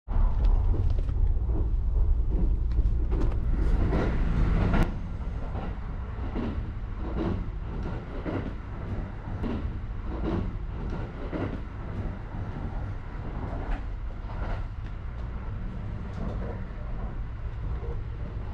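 Kintetsu Hinotori limited express train running, heard from inside the car: a steady low rumble with regular soft knocks. The rumble drops noticeably about five seconds in.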